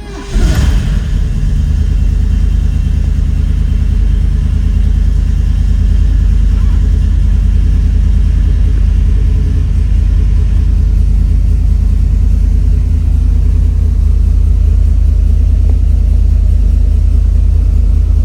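De Tomaso Pantera's Ford V8 catching on a cold start just after the starter stops, then settling into a loud, steady idle with a deep low rumble.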